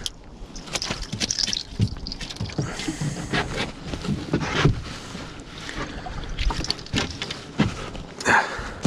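A small sea bass thrashing while being handled on a small dinghy: irregular knocks and slaps against the boat.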